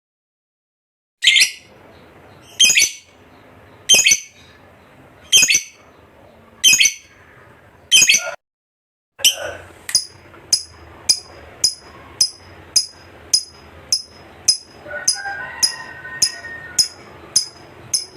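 Lovebird giving sharp, shrill chirps. First come six single calls about a second and a half apart; then, after a short break, a faster run of calls about two a second.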